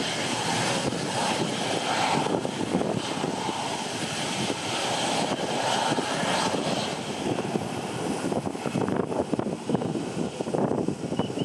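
Jet airliner engines running during a departure, heard through heavy wind noise buffeting the microphone. The wind gets choppier in the last few seconds.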